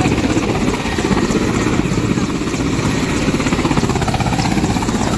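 Helicopter rotor running steadily with a fast, even chopping beat.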